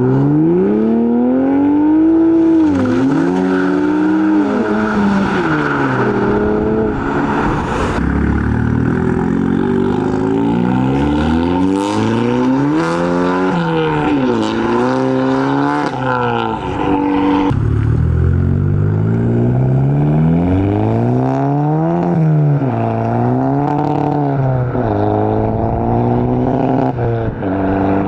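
Modified car engines revving and accelerating past, their pitch climbing and dropping again and again as they rev and shift gears.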